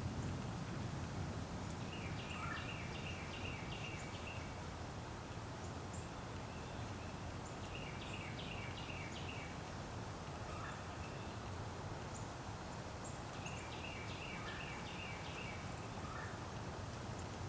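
A bird's rapid chattering call, a quick run of notes lasting about a second and a half, given three times several seconds apart, over a steady low rumble.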